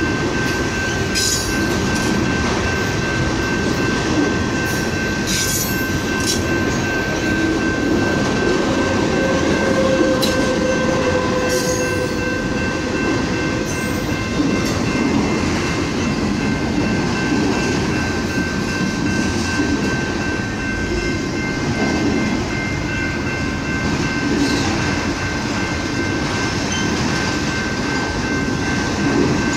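Freight train of autorack cars rolling steadily past, with wheel rumble and occasional sharp clacks from the wheels and couplers. A steady high-pitched tone rings over it throughout.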